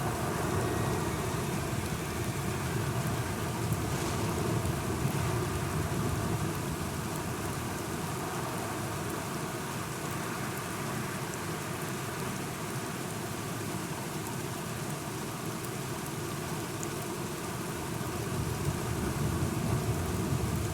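Steady rain falling, with a low thunder rumble that is stronger at the start and swells again near the end.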